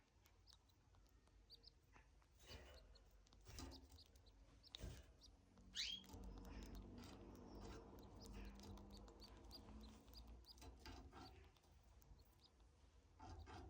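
Pet canary chirping faintly: scattered short, high chirps, with one louder sweeping call about six seconds in.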